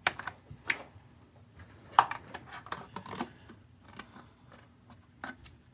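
Irregular sharp metallic clicks and clacks of a knife being flipped open and shut in the hand, the loudest about two seconds in.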